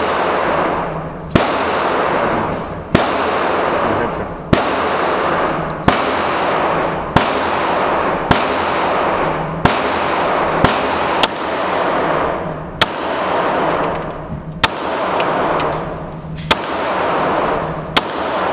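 A 9mm pistol fired in slow, steady succession: about a dozen single shots, roughly one every second to second and a half, each a sharp crack.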